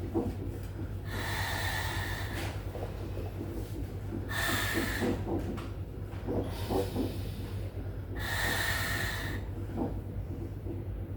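A woman in labour breathing heavily: three long, hissing breaths about three and a half seconds apart, over a steady low hum.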